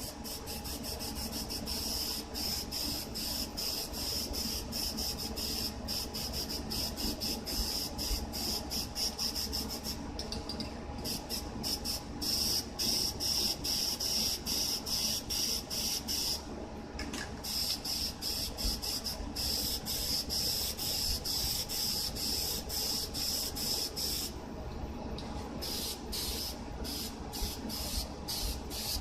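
Aerosol can of black spray paint hissing in many short, quick bursts, pausing briefly about ten, sixteen and twenty-four seconds in.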